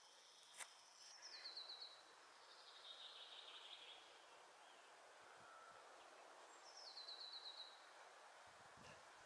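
Faint songbird song: two short, quick trilled phrases that fall in pitch, about five seconds apart, with a softer warble between them. One sharp click about half a second in, and a few soft low thuds near the end.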